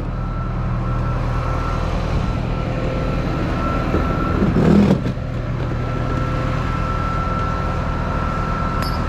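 Truck engine running steadily, with a thin steady whine above it and a brief louder swell about halfway through.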